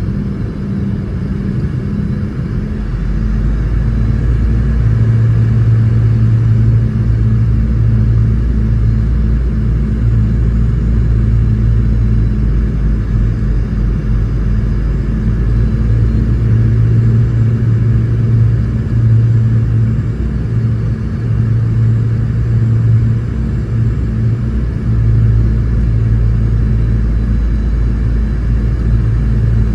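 Cabin noise inside a Boeing 717-200 near the tail: a steady, loud low rumble with a hum from its rear-mounted Rolls-Royce BR715 engines and the airframe.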